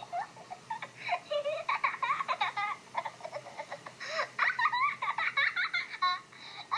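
High-pitched giggling laughter in quick repeated bursts, with a few pauses.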